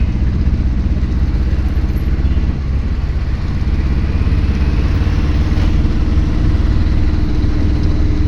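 Vehicle engine running steadily under a deep rumble of road noise, its pitch rising slightly near the end.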